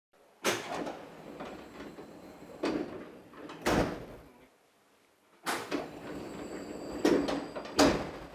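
Tokyu 8500 series passenger sliding door worked twice by its overhead air-operated door engine, with a hiss of air. Each run ends in a sharp knock as the door stops. Its plastic-and-rubber rollers run quietly on the upper rail.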